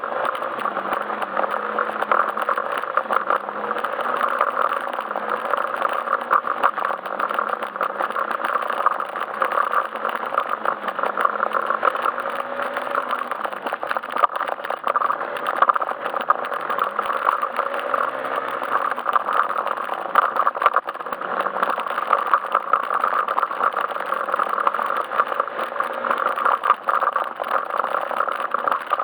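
Yamaha Majesty S scooter's single-cylinder engine running while riding, its pitch wavering up and down with the throttle, under a steady rushing noise of wind and road.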